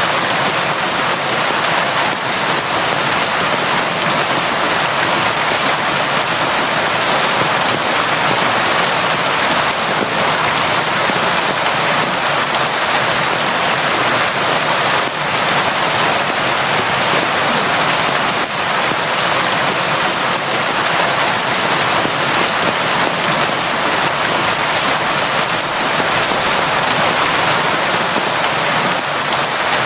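Steady, constant rain falling heavily, an even hiss with no breaks or changes.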